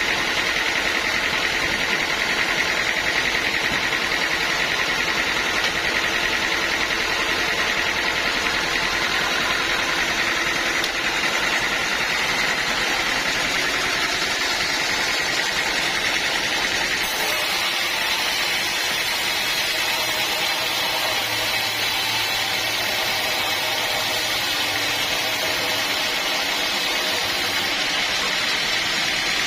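Sawmill machinery running steadily, a continuous mechanical din with a high, sustained whine in it.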